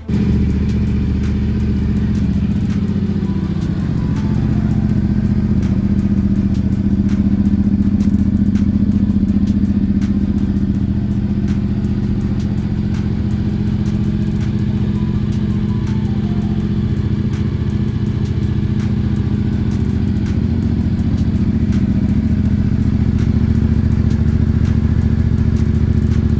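Yamaha Ténéré 700's parallel-twin engine running steadily through an aftermarket LeoVince exhaust, holding a nearly constant pitch with no revving.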